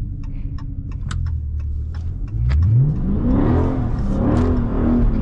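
Dodge Charger Scat Pack's 6.4-litre HEMI V8 running low at first, then revving hard in second gear about two seconds in and holding high, wavering revs for the rest, with a loud rushing tyre noise as the rear wheels spin and the car slides through a corner on a wet road.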